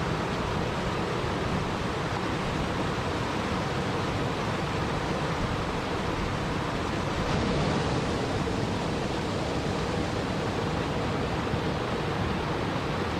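Steady, even rushing of water, a continuous nature ambience with no distinct drops or splashes. It grows slightly louder a little past the middle.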